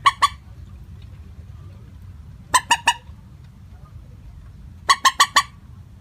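Common moorhen calling: short, harsh, clucking notes in quick groups, first two, then three about two and a half seconds in, then four near the end, all at the same pitch.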